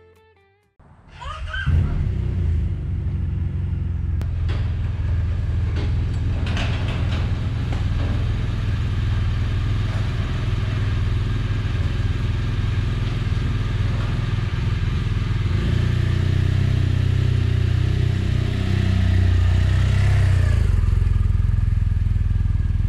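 Motorcycle engine running steadily at idle, coming in suddenly about a second in.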